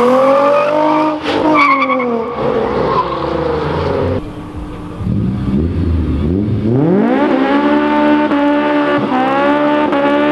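A Nissan 350Z's V6 revs up and eases off as it drives past. Then a Honda S2000's four-cylinder revs up about two-thirds of the way in and is held at high revs with the rear tyres spinning in a smoky burnout.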